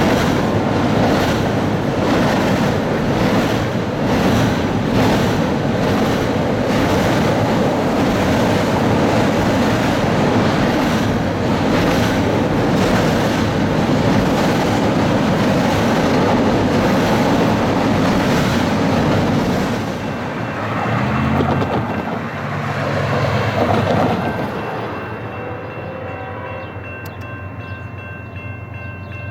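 A CSX train rolling past with steady rail noise and a regular clatter of wheels over the rail joints. About twenty seconds in, the rolling noise dies down and steady tones at several pitches carry on to the end.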